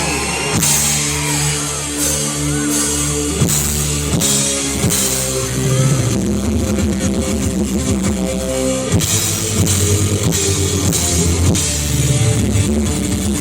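Live rock band playing: drum kit beating a steady rhythm under sustained guitar chords.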